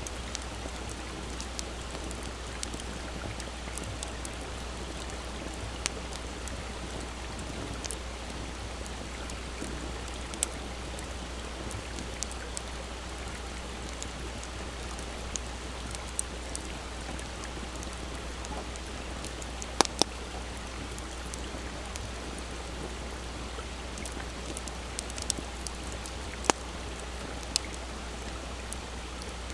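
Campfire crackling with scattered sharp pops, the loudest a close pair about two-thirds of the way through, over the steady rush of a small stream.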